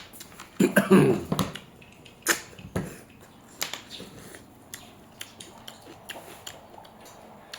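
Eating sounds: chewing with irregular sharp clicks and smacks, busiest in the first three seconds and thinning out after.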